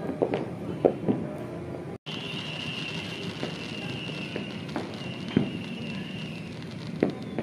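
New Year's fireworks going off: scattered sharp bangs, three in the first second or so and two more later on, over a steady background noise. A steady high tone runs through the middle.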